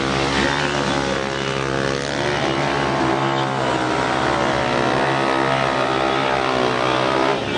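Motorcycle engines running, their pitch rising and falling as the throttle is worked.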